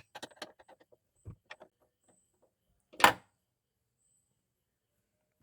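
A ring spanner working on a car's rear-door hinge nut: a few light metal clicks and clinks in the first second and a half, then a single loud knock from the door about three seconds in.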